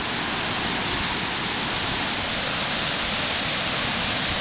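Water pouring over a dam spillway: a steady, loud rush of falling water.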